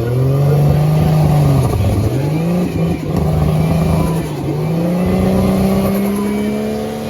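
Drift car's engine revving hard at high rpm through a run, dropping briefly about two seconds and four seconds in as the throttle comes off for transitions, then climbing and holding high again before falling off at the end.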